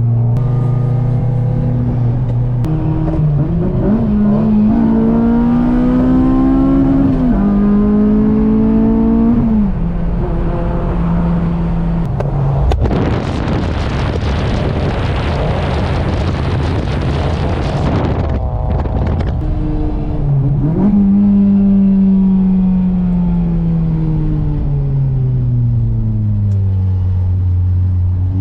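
A car engine pulling up in revs with steps like gear changes, then winding down smoothly as the car slows. In the middle there is a loud rushing noise lasting about five seconds.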